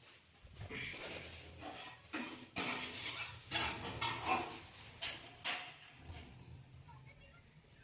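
Dishes and cutlery clinking and clattering, a run of irregular knocks over several seconds, as food is served or eaten.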